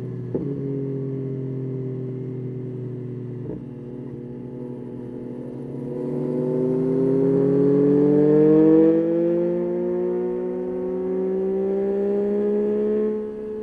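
Yamaha Tracer 9's 890 cc inline three-cylinder engine under way: the revs fall off for the first few seconds, with two short clicks, then the engine pulls up with rising pitch and is loudest about nine seconds in. It eases briefly, climbs again and drops off sharply just before the end.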